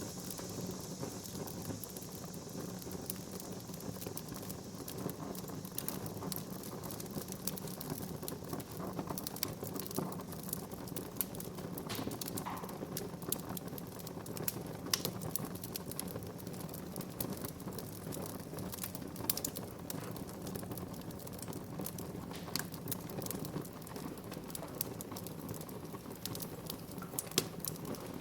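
Wood fire burning in a fireplace, crackling and popping at irregular intervals over a steady low rush of flame, with a few sharper pops standing out, one near the end.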